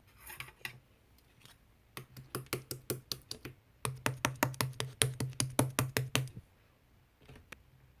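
Slime being pressed and poked by hand, giving quick crisp clicks and pops, about six a second, in two runs: one short, then a longer one of about two and a half seconds.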